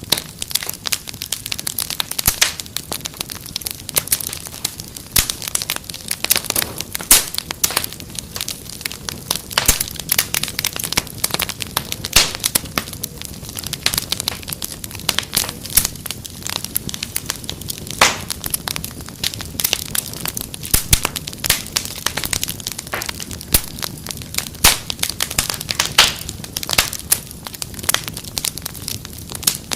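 Wood fire in a fireplace crackling, with dense, irregular sharp pops and snaps over a steady low hiss.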